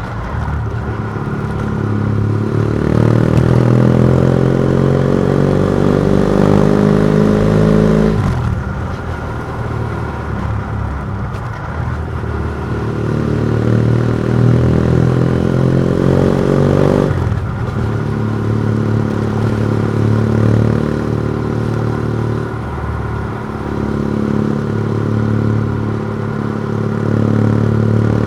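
BMW F700GS's parallel-twin engine through a MIVV Oval titanium exhaust with the dB killer removed, revving up under acceleration. It climbs in pitch twice, each climb ending in a sudden drop in revs, then climbs again near the end.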